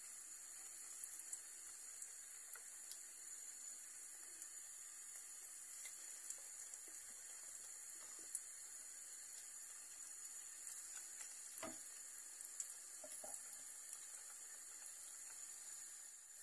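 İçli köfte (bulgur-shelled stuffed meatballs) deep-frying in hot oil in a saucepan: a faint, steady sizzle with scattered small pops.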